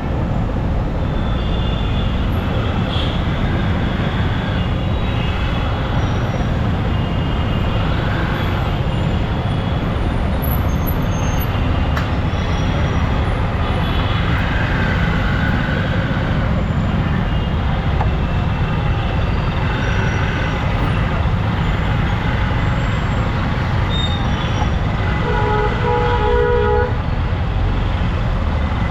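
Steady wind and engine noise of a Yamaha R15 motorcycle riding through city traffic, with short horn toots from other vehicles and a longer horn about 25 seconds in.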